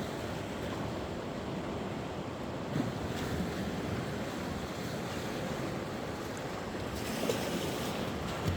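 Sea waves washing on the shore, a steady surf hiss that swells near the end, with some wind buffeting the microphone.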